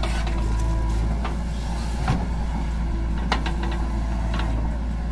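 Heavy diesel engine running steadily with a deep rumble, with a few short, sharp knocks over it.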